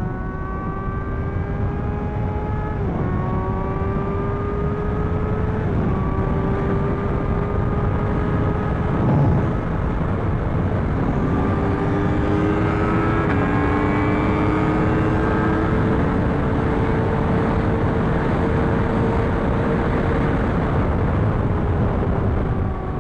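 Sport bike engine pulling through the gears, its note climbing slowly and dropping sharply at upshifts about three and six seconds in, over a heavy rush of wind noise. A second engine's note runs alongside for a few seconds midway, then the bike holds a steady cruise and eases off near the end.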